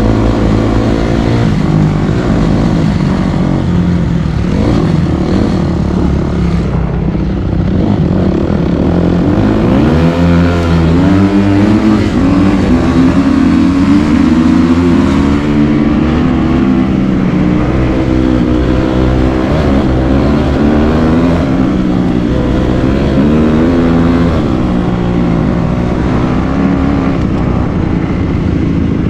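Dirt bike engine running hard as the bike is ridden. Its pitch is fairly steady at first, then from about ten seconds in it rises and falls again and again as the throttle is worked.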